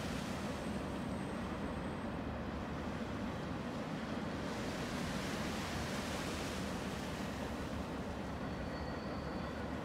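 Empty double-stack container train rolling past on the shoreline tracks: a steady rumble of its wheels on the rails, mixed with wind.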